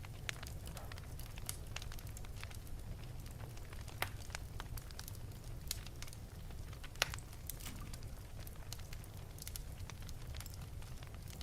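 Wood fire burning in an open fireplace: irregular crackles and pops over a steady low rumble of the flames, with sharper snaps about four and seven seconds in.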